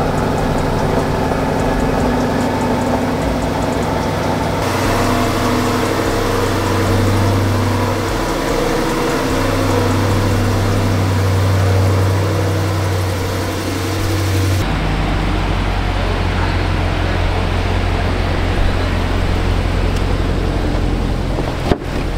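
Chevrolet C8 Corvette's V8 idling steadily. A sharp click near the end as the car door is opened.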